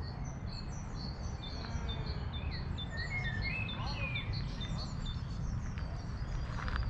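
Songbirds singing, with a run of short high chirps repeating about three times a second and a few lower whistling notes about three seconds in, over a steady low rumble.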